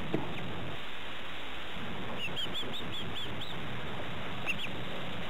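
Young bird peeping: short high chirps, a quick run of about eight starting about two seconds in and two more near the end, over steady tape hiss.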